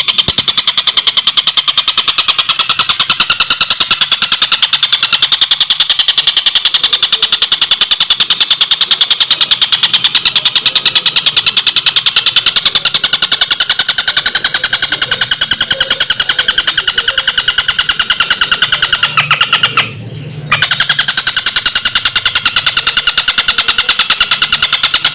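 Stork-billed kingfisher (tengkek buto) giving its long cackling 'ngekek' call: a rapid, even, harsh rattle that runs on without pause except for a brief break about twenty seconds in.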